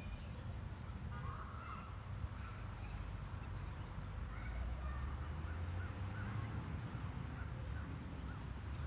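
Birds calling over and over, short bending cries, over a steady low rumble.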